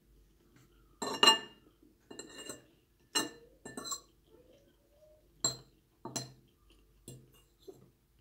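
Cutlery clinking against a dish while eating noodles, about eight separate clinks with a short ring, the loudest about a second in.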